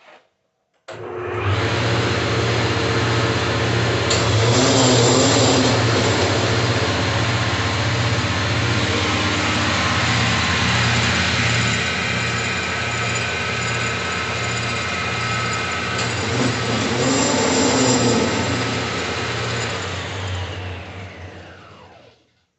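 Alternator test bench running a rebuilt Santana alternator fitted with new bearings: a click, then the drive motor spins up about a second in and runs steadily with a low regular pulsing. Near the end it is switched off and winds down with a falling whine.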